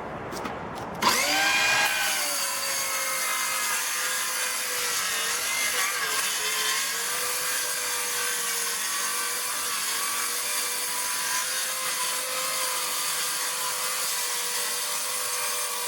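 Bauer 20V cordless circular saw spinning up about a second in and ripping through 1-inch particle board with a steady motor whine and cutting noise. The motor bogs briefly about six seconds in as the blade binds while the cut is twisted.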